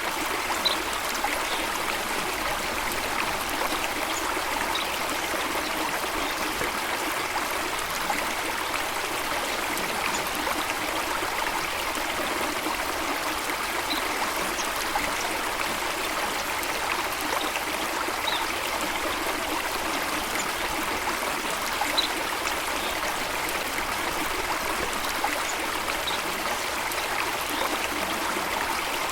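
Stream water running steadily, with a short high-pitched sound every few seconds.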